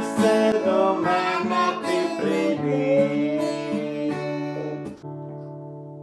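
Acoustic guitar strumming the closing chords of a song, then a final chord struck about five seconds in and left ringing as it fades.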